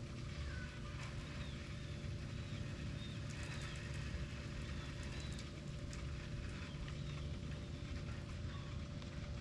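A steady low mechanical hum holding two even tones, with short faint high chirps scattered over it.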